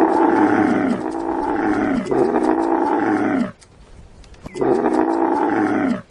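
Camel bellowing: a run of long, low calls, each bending down in pitch at its end, then a break of about a second before another call.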